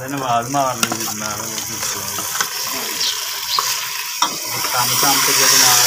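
Curry masala frying in oil in an aluminium pot on a gas burner, sizzling steadily while a metal spoon stirs it and clinks against the pot a few times. The sizzle grows louder about five seconds in.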